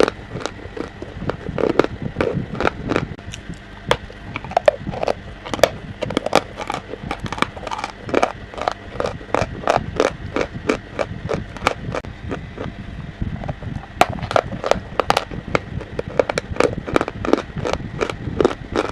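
Close-up crunching and chewing of pieces of chalk: a quick, dense run of sharp, crisp crunches, several a second.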